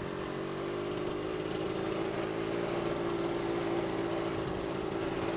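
Yamaha RZX two-stroke motorcycle engine running steadily at low revs as the bike is ridden slowly.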